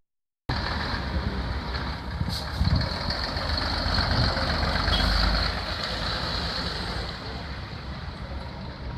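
Powerstar 2628 tipper truck's diesel engine running as the truck drives off, a steady rumble that swells about halfway through, with a constant hiss over it.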